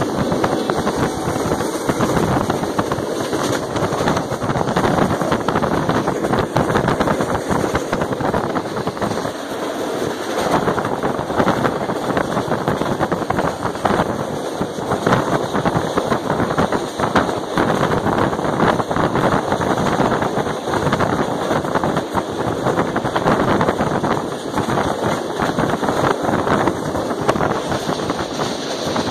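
Passenger train coach running at high speed: a steady rush of wind over the microphone with a constant clatter of the wheels on the rails.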